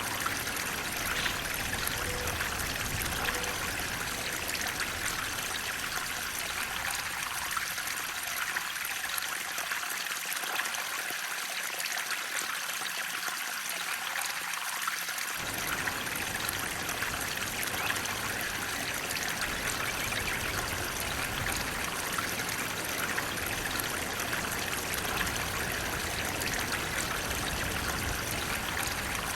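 Flowing water rushing steadily, like a stream or small waterfall, with a bright, even hiss. The deep low part of the sound fades away for several seconds and cuts back in abruptly about halfway through.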